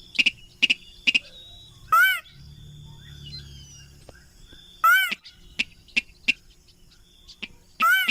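Crake calls played as a hunting lure: a loud arched note that rises and falls in pitch, coming about every three seconds, each followed by a run of short sharp notes.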